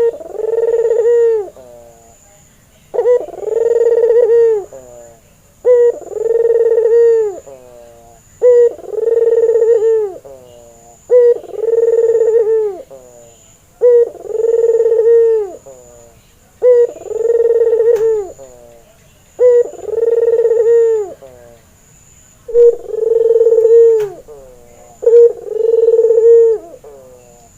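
White barbary dove (domestic ringneck dove) cooing over and over: each call is a short note followed by a longer held coo, repeated about every two and a half to three seconds, some ten times.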